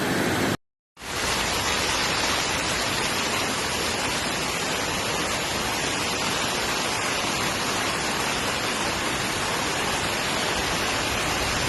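Floodwater rushing: a steady, loud rush of water that briefly cuts out to silence just under a second in.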